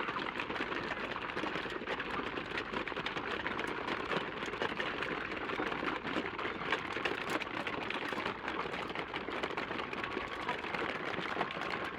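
Large flock of chickens at feeding time: a dense, steady clatter of rapid tapping, like many beaks pecking at feeders.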